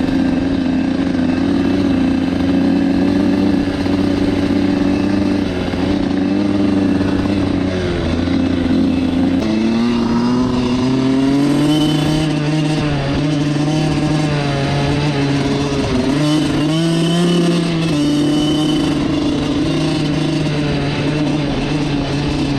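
Suzuki RM85's small single-cylinder two-stroke engine running. Its pitch holds steady at first, then shifts lower and wavers up and down from a little before halfway.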